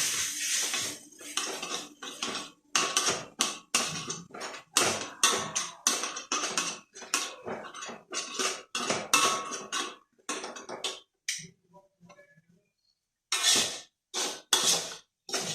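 Spatula stirring and scraping fried rice in a pan, in quick repeated strokes. A frying sizzle fades in the first second, and after a short pause near the end a few more strokes follow.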